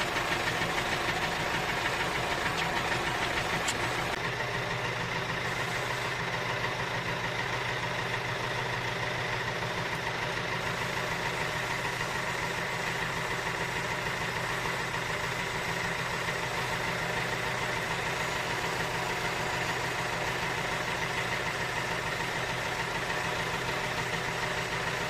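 Tractor engine idling steadily, with an even knocking beat.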